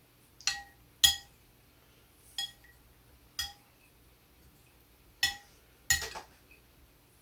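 A spoon clinking against a soup bowl six times, each strike ringing briefly, as the soup is stirred and scooped.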